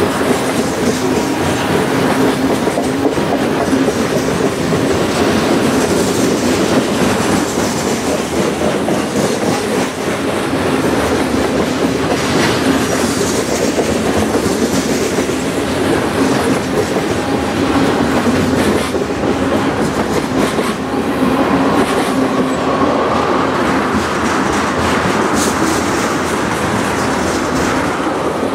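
Freight cars of a long train rolling past close by: a steady rumble of steel wheels on rail, with the wheels clicking as they cross the rail joints. The open-top hopper cars give way to tank cars near the end.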